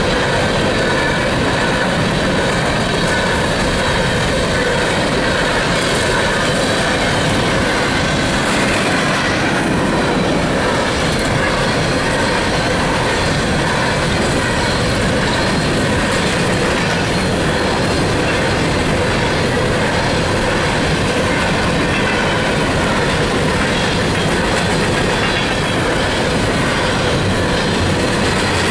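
Empty coal train hopper cars rolling past steadily, wheels clacking over the rail joints with a faint, steady wheel squeal.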